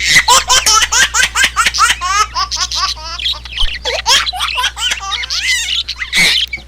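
High-pitched laughter in the manner of a baby giggling: many quick rising squeals, several a second.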